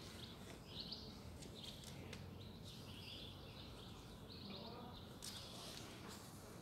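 Songbirds chirping faintly in short, scattered calls over a low, steady outdoor background hum.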